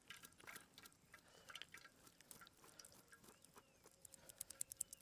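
Near silence with faint, scattered small clicks and taps, and a quick run of faint ticks near the end.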